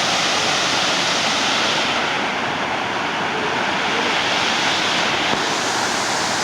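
Waterfall rushing: a steady, continuous noise of falling water, its hiss dulling slightly for a few seconds in the middle.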